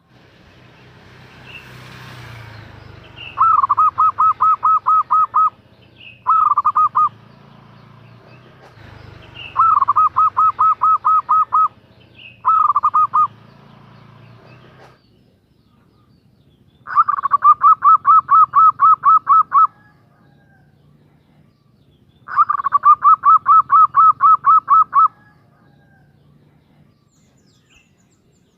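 Female zebra dove (perkutut) calling a male: six runs of rapid, evenly spaced short cooing notes. The later runs are longer, about three seconds each.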